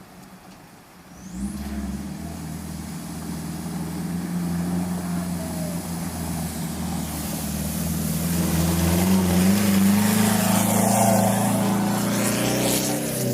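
A race vehicle's engine comes in suddenly about a second in and runs at a fairly steady pitch, growing steadily louder as it approaches. A hiss builds in the second half.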